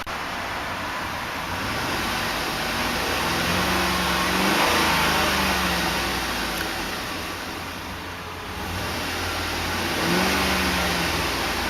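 2008 Chevrolet Tahoe's 5.3-litre Vortec V8 revved twice while parked, once about three seconds in and again near the end, the pitch rising and falling back to idle each time.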